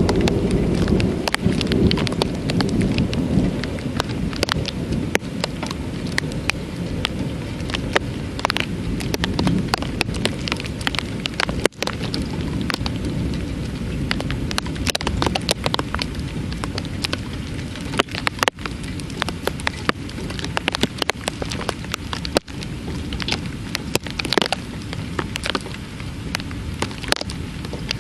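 Steady rain falling during a thunderstorm, with many close drops ticking sharply on a nearby surface. A low thunder rumble dies away over the first few seconds.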